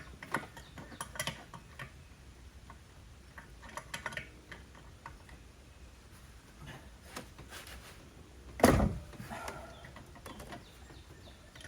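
Hand tools and metal and plastic engine parts being handled: scattered light clicks and taps, with one much louder clunk about three-quarters of the way through.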